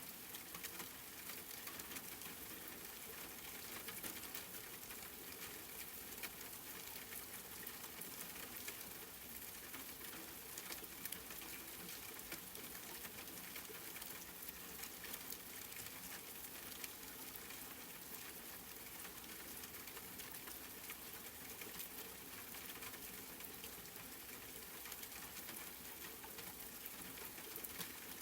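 Steady rain, a dense even patter of many small drops hitting a surface, with no thunder.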